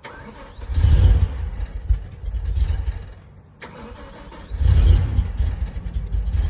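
BMW M5 E60's V10 engine being cranked twice after a rebuild, each time firing roughly for a second or two and dying away without catching: it is misfiring and won't start. A single sharp click comes between the two attempts.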